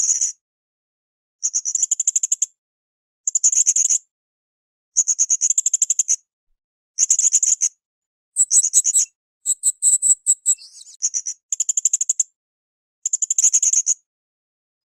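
Blue-crowned hanging parrot (srindit) calling in a string of short, high-pitched rapid trills, each about a second long with roughly a second of silence between them. About two-thirds of the way through, the pattern changes to a run of thinner high notes.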